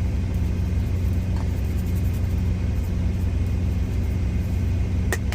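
Idling truck engine, a steady low rumble at an even pitch, with a single sharp click about five seconds in.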